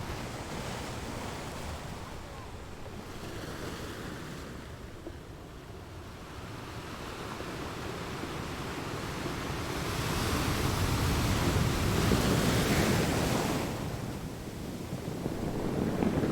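Ocean waves breaking and washing on a shore, in slow swells; the loudest wave comes about ten seconds in and falls away, and the next is building near the end.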